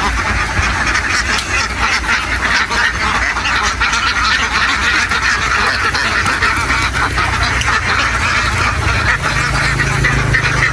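A huge flock of domestic ducks quacking continuously, a dense overlapping din of calls. Underneath runs a low steady hum that rises slightly in pitch about two thirds of the way through.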